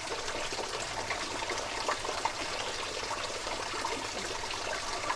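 Water running and trickling steadily, with many small irregular splashes.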